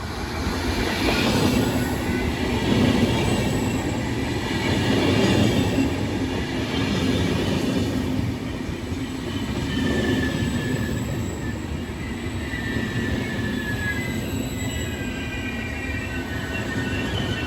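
A train running through a station: a loud, continuous rumble of wheels on rails that swells and eases every few seconds. In the second half, thin high wheel squeal joins it.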